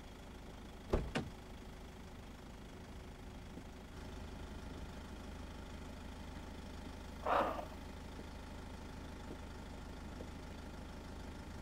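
A car's engine idling with a low, steady hum. About a second in there are two quick sharp clicks, and a little after seven seconds a short noisy rush.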